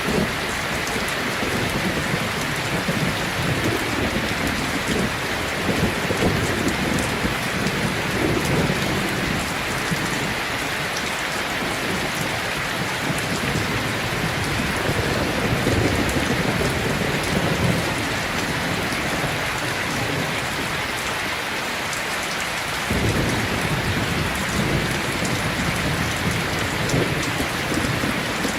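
Steady rain falling, with low rolling thunder rumbling underneath in swells that rise and fade; the rumble dies down shortly before three-quarters of the way through and comes back abruptly.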